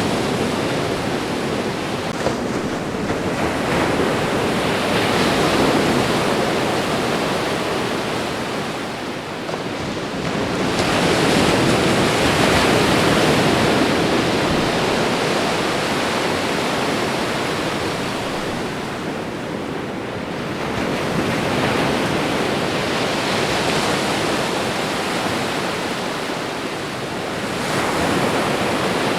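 Ocean surf washing onto the shore, a continuous rush of water that swells and fades in slow surges every several seconds as each wave comes in.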